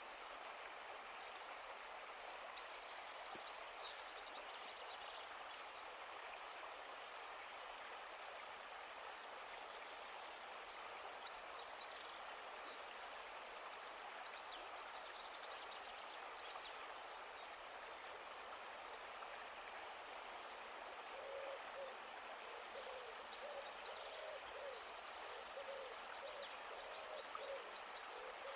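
Faint nature ambience: a steady hiss with short high bird chirps throughout, and low hooting calls repeated many times in the last third.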